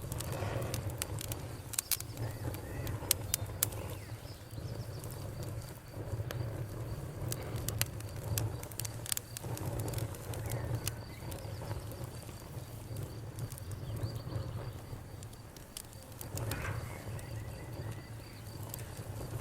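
Wood fire crackling in a fireplace, with irregular sharp pops and snaps over a steady low hum. A faint high, rapidly pulsing tone runs underneath.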